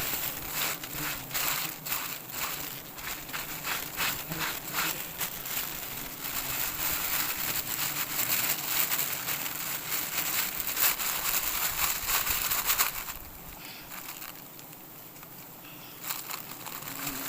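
Irregular crackling and rustling, a dense run of it in the middle that then dies down, heard while the nest is being worked up in the tree.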